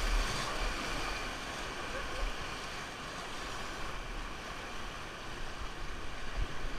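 Rushing river water, a steady hiss of whitewater, with low buffeting of wind on the microphone now and then.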